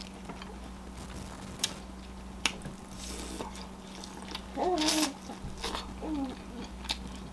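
Close-miked eating sounds: wet chewing with scattered sharp mouth clicks. A short, pitched hum-like mouth sound comes about halfway through and again briefly a second later.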